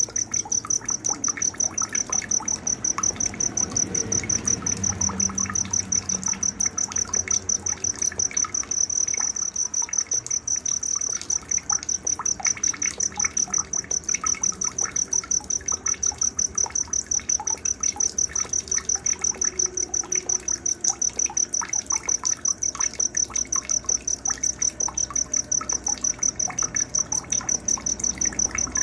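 Night nature soundscape: a cricket chirping loudly and steadily at a high pitch, about three or four chirps a second, with scattered short bird chirps beneath it.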